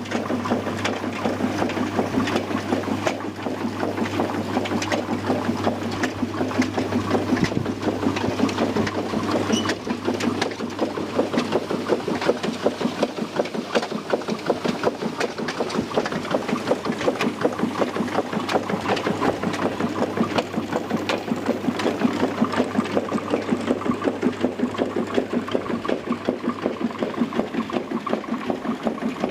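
Vintage Cooch and Sons potato riddle (grader) running, its shaking screens giving a fast, continuous rattling clatter. A steady low hum sits under it for the first half and then fades.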